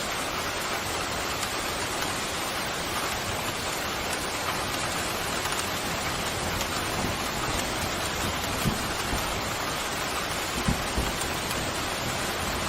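Steady, heavy rain pouring and pattering on surfaces, with a few brief low thumps in the second half.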